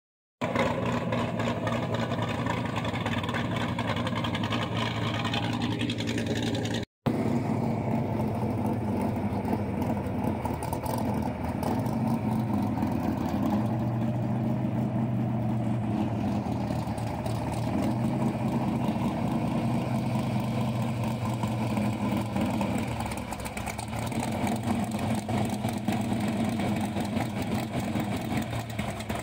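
Car engine idling steadily, its revs rising a little now and then. The sound drops out for a moment about seven seconds in, and the idling carries on afterwards.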